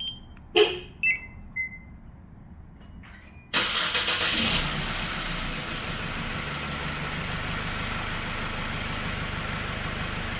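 A few short electronic beeps from the remote-start system, the first and loudest one sharp. About three and a half seconds in, the 2016 SsangYong Korando Sports' diesel engine is started remotely: the starter cranks for about a second, the engine catches, and it settles into a steady idle.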